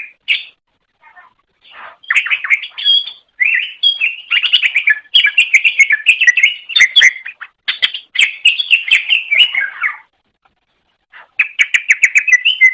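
Cucak ijo (greater green leafbird) singing: a fast, varied, chattering run of sharp notes in long bursts. The song breaks off briefly about a second in and again near ten seconds before resuming.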